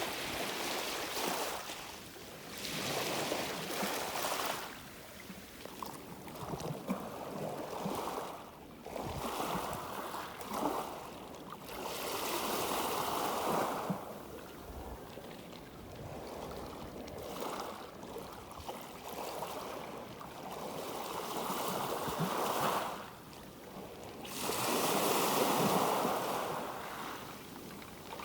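Light sea waves breaking and washing, each swell of rushing water rising and fading every few seconds.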